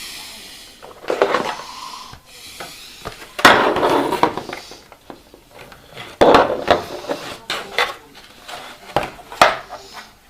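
Hard objects being handled and set down, clattering and clicking in four separate bursts.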